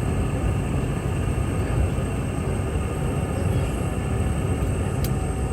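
Steady cabin noise of a Boeing 717-200 on the ground before departure: a low rumbling hum with a thin high-pitched whine over it. One sharp click about five seconds in.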